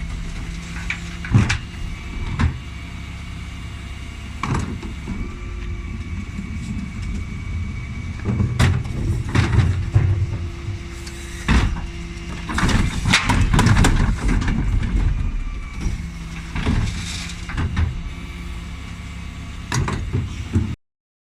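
Dennis Elite 6 refuse truck running, with a steady whine and repeated knocks and bangs from the bin-lift work. The sound cuts out briefly near the end.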